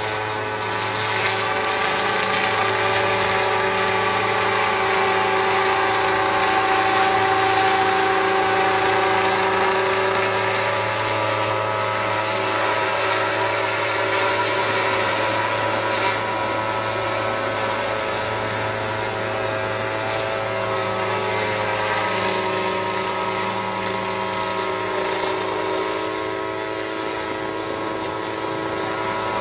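Helicopter running overhead: a steady mechanical drone made of many steady tones, growing slightly louder for a few seconds before easing back.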